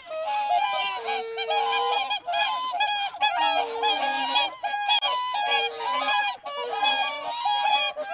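A flock of birds calling, many short pitched calls in quick succession and overlapping one another.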